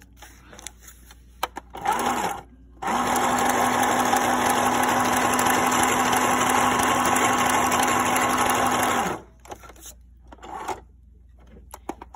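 New Home Janome mini sewing machine running as it stitches: a brief start about two seconds in, then a steady run of about six seconds at constant speed that stops abruptly.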